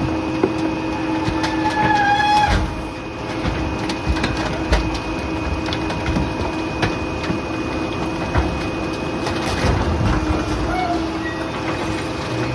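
Rear-loader garbage truck running, a steady mechanical whine over the engine, with scattered knocks and clatter of debris and a brief squeal about two seconds in.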